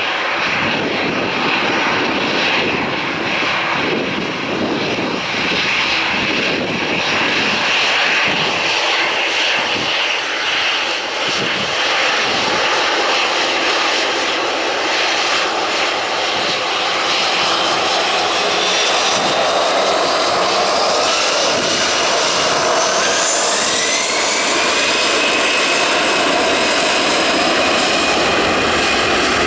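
Airbus A321's CFM56 jet engines running at take-off power as it departs, a loud steady roar. About two-thirds of the way through, a whining tone climbs in pitch and then holds high.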